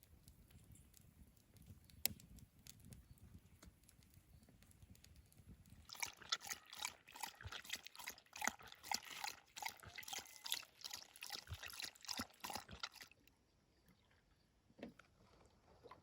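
Water splashing and sloshing in quick irregular bursts, starting about six seconds in and stopping about seven seconds later. Before that there is only a faint low rumble and one sharp click.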